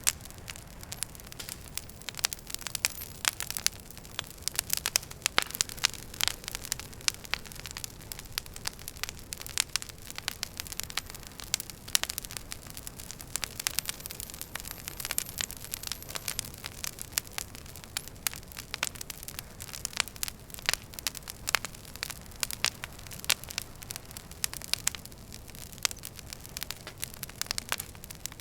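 Wood fire burning in a fireplace: dense, irregular crackles and pops, several a second, over a steady low rumble of the flames. A faint thin hiss falls in pitch briefly about halfway through, like gas escaping from a log.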